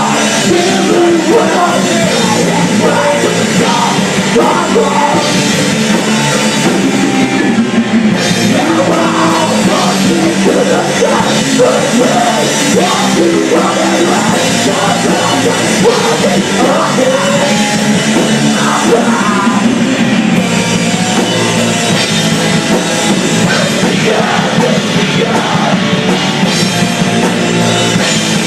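A rock band playing live at full volume: distorted guitars, bass and drum kit, with shouted vocals.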